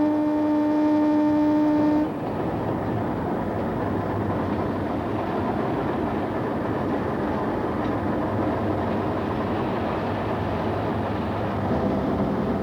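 A locomotive horn sounds one loud, steady blast that cuts off abruptly about two seconds in, followed by the steady rumble of a train running by on the rails.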